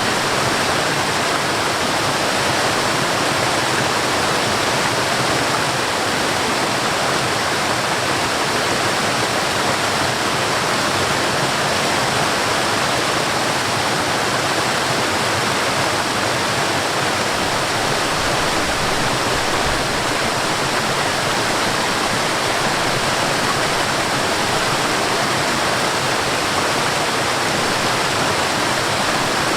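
Steady rush of water from a stream and a small waterfall, a constant even hiss with no breaks or changes.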